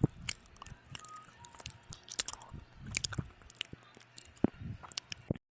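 Close-up chewing of food: wet mouth clicks and small crunches at an irregular pace, with a sharp click right at the start. The sound stops suddenly near the end.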